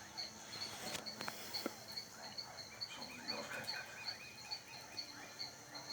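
A faint chorus of frogs calling at dusk: many short croaking chirps, with a steady high pipping call repeating about three times a second. A sharp click sounds about a second in.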